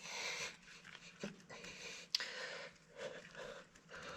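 Panting breaths, soft puffs about once a second, with a light knock just after a second in and a single sharp click a little after two seconds.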